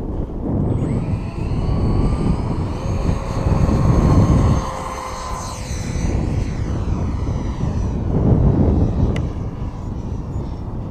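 Model Mirage III jet flying past: a surging rush of engine noise with whining tones that slide down in pitch as it goes by. A single sharp click comes about nine seconds in.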